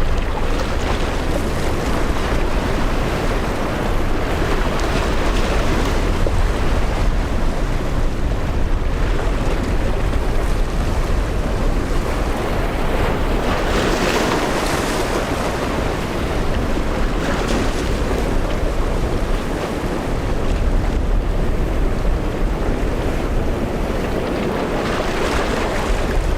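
Strong wind buffeting the microphone over the steady wash of rough surf, with a louder rush of water about fourteen seconds in.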